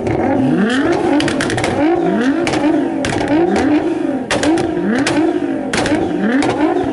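Modified Nissan GT-R twin-turbo V6 engines being revved again and again while stationary, the pitch climbing and dropping about every two-thirds of a second, with sharp crackles between the revs.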